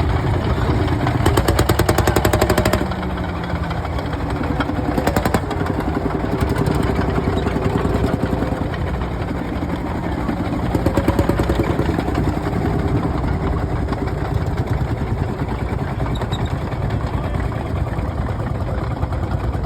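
Single-cylinder two-stroke diesel engine of a Fowler VF-series tractor running with a steady, even firing beat. It is louder for about the first three seconds, then settles to a slightly quieter run.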